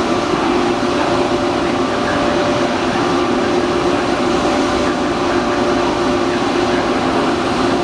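ETR 500 Frecciarossa high-speed electric train pulling away, a steady whine of two held tones over an even rumbling hiss.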